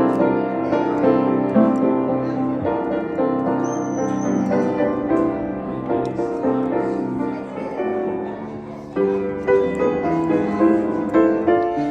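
Piano playing a slow melody with chords. It softens about eight seconds in, then comes back fuller about a second later.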